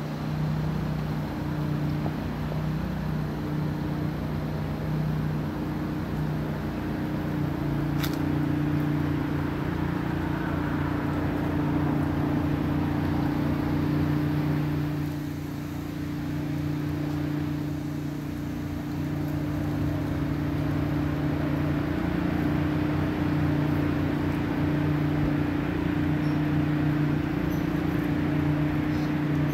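Steady low hum of a running car engine over outdoor background noise, with a single sharp click about eight seconds in.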